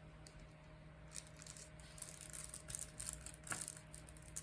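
Faint, scattered light clicks and rattles over a low steady hum.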